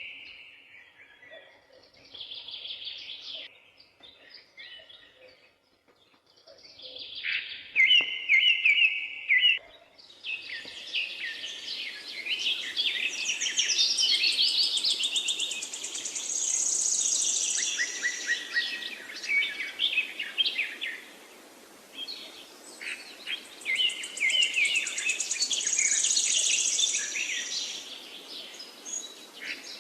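Forest birds singing: several birds repeat short chirping and trilling phrases, sparse at first. About ten seconds in, a denser chorus comes in over a steady background hiss.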